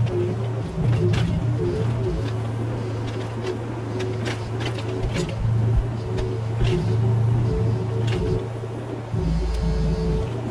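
Mini excavator engine running steadily under load while the bucket knocks and scrapes on rubble and earth, with many short clanks.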